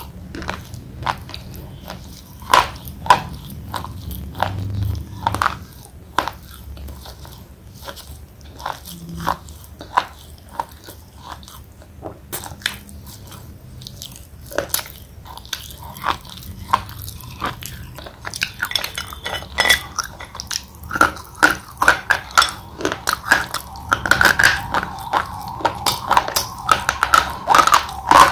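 Close-up crunching and chewing of thick slate pencils in the mouth: sharp, irregular crunches with quieter grinding between them. The crunches come faster and thicker in the last third.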